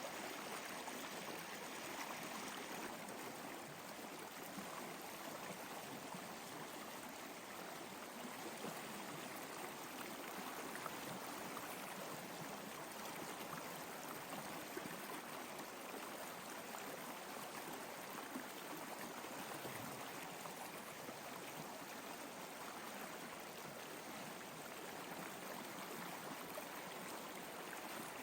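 Flowing stream: a steady rush and babble of running water.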